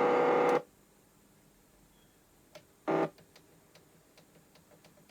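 Panasonic RX-FT590 boombox radio between broadcasts. A loud sound full of steady pitched lines cuts off about half a second in. Then comes a low background with a run of faint ticks and one brief burst of sound about three seconds in.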